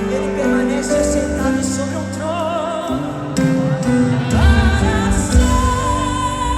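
Live gospel worship music: a woman singing held notes with vibrato over a band with bass and keyboards.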